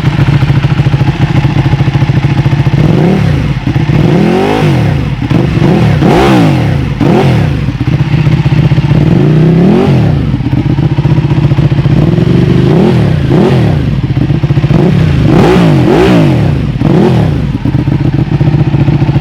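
Ducati 1299 Panigale's L-twin engine through a full titanium Akrapovic exhaust, idling and then blipped up in a string of about a dozen quick throttle revs before settling back to idle near the end. It is loud throughout.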